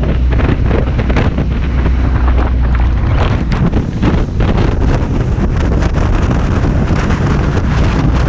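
Loud wind buffeting the microphone over the drone of a jet boat's engine running at speed; the low drone is strongest through the first three seconds.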